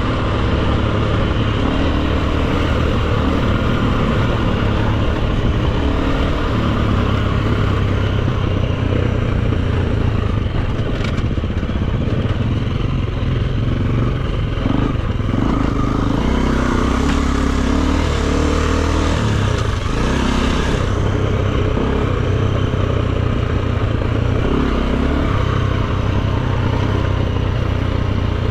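Enduro dirt bike engine running as it is ridden off-road, its pitch shifting up and down with the throttle, with a stretch of extra hiss a little past the middle.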